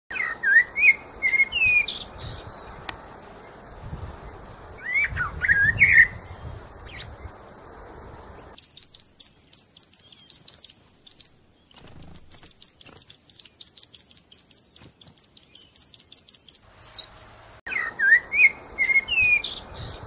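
Birds chirping and calling. About a third of the way in, the background hiss cuts out and a fast series of high repeated notes, about five a second, takes over. Near the end the earlier chirping and hiss return abruptly, as in a spliced birdsong track.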